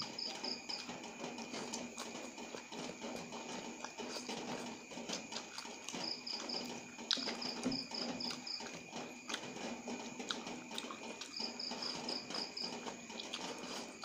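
Close-up eating sounds: wet chewing, lip smacks and clicks as noodles and fresh tamarind leaves are picked up by hand and eaten. Several quick runs of four to six high-pitched chirps come through behind, over a steady faint hum.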